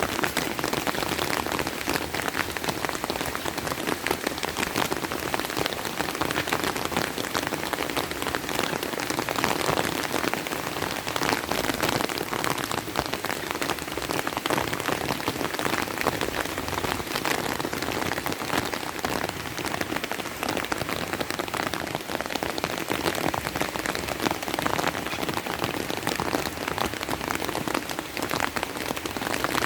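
Rain falling steadily, a dense, even spatter of many drop impacts.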